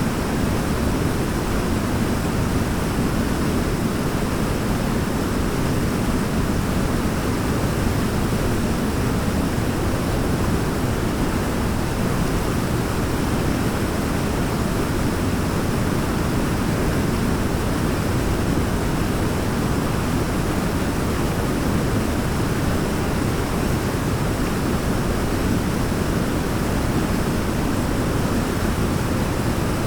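Waterfall rushing steadily: an even, deep noise with no changes in it.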